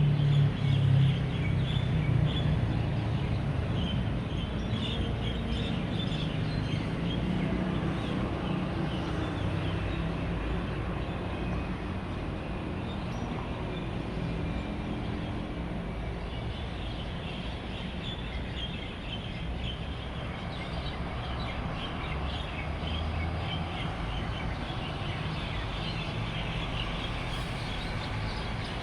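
Steady road traffic rumble, loudest as a vehicle passes near the start, under the dense chirping of a flock of birds gathered at an evening roost. The chirping thins out in the middle and swells again in the second half.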